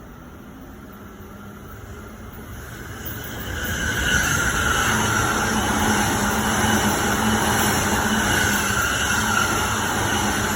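Keihin-Tohoku Line electric commuter train drawing near, its noise growing louder over about four seconds, then a steady loud rushing of the train running on the rails with a faint hum underneath.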